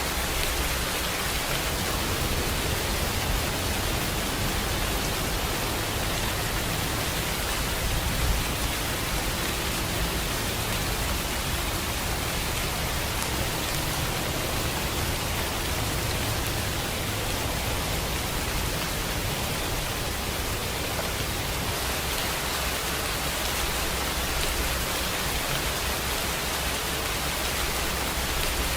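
Steady rainfall, a dense, even hiss of rain on surfaces with no let-up.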